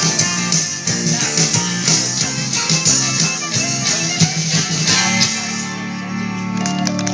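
Rock band playing the instrumental close of a song: strummed guitars with tambourine, settling about five seconds in onto a held final chord that rings on.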